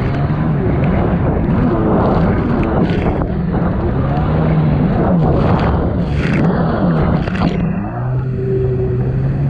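1999 Sea-Doo XPL personal watercraft's two-stroke engine running on and off the throttle, its pitch rising and falling several times, with short bursts of rushing water and wind noise. Near the end it eases off to a steadier, lower note.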